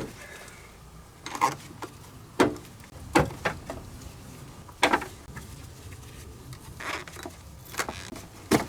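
Irregular knocks and clatters, several of them a second or so apart, of hand tools and metal parts being handled during work on the car.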